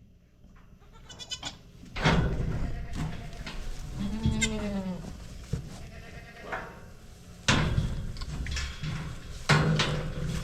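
Goats bleating in a kidding pen: one wavering call of about a second, about four seconds in, among shorter bursts of noise and calls.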